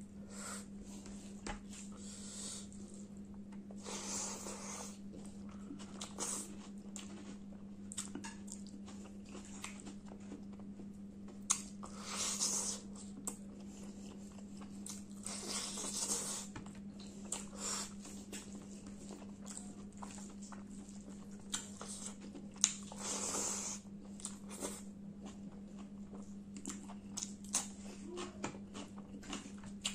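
Close-miked eating of chicken curry and rice: chewing with scattered mouth clicks, and several longer bouts of chewing lasting about a second each. A steady low hum runs underneath.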